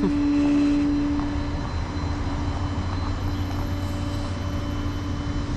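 Truck engine idling with a steady low rumble, and a steady hum over it that fades out about a second and a half in.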